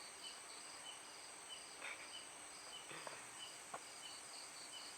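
Night insects, crickets chirping in short, evenly repeated pulses, about two a second, over a steady high insect drone, with a few faint brief sounds around the middle.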